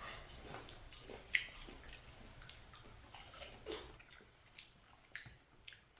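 Faint eating sounds: scattered small smacks and clicks, irregular, with the sharpest one a little over a second in.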